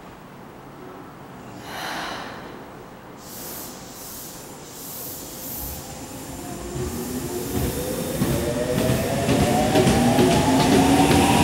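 Tokyo Metro 03 series eight-car train pulling out of the station: a short burst about two seconds in and some hissing of air, then the traction motors' whine rising in pitch in several tones as the train accelerates, getting steadily louder toward the end.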